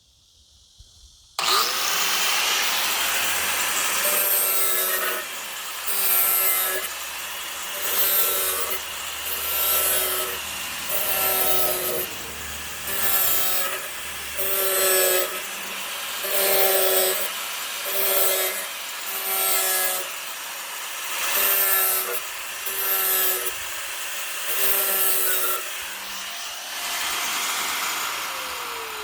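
Electric power tool switched on about a second in and run into the work. Its motor tone drops and recovers in regular strokes about once a second as it loads up. It winds down with a falling pitch near the end.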